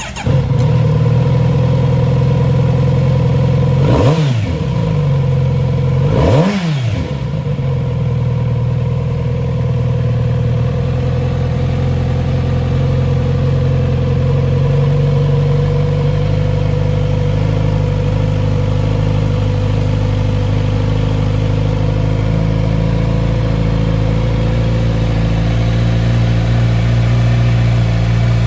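Kawasaki Z900RS inline-four engine starting up. It is blipped twice, the revs rising and falling quickly about four and six and a half seconds in, then it settles into a steady idle.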